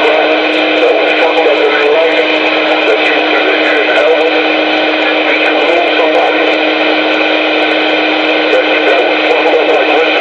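CB radio receiver audio: loud static with garbled, unintelligible voice over the channel and a steady low tone.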